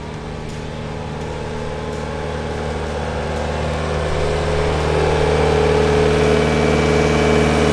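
A vehicle engine running steadily, growing gradually louder.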